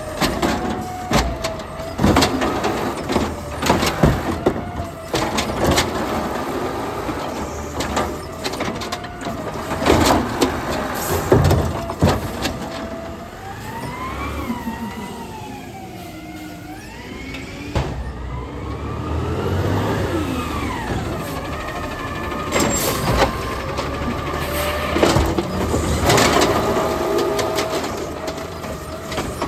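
Garbage truck at work: the engine runs under a rising and falling whine, with a string of loud bangs and knocks. The knocks bunch in the first half and again near the end.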